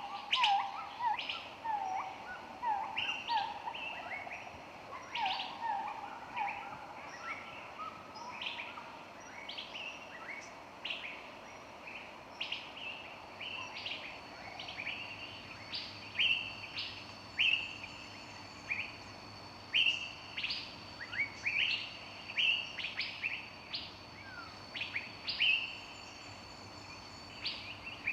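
Several songbirds chirping and singing, many short high chirps overlapping. In the first few seconds a lower repeated call sounds under them, and from about halfway a steady high note runs on beneath the chirps.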